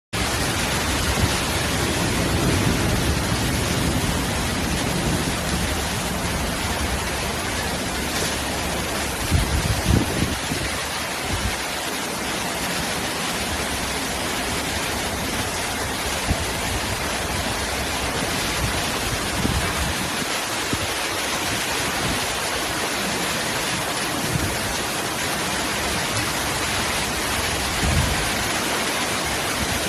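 Heavy rain pouring down steadily, with gusts of strong wind that rumble now and then, most strongly about ten seconds in.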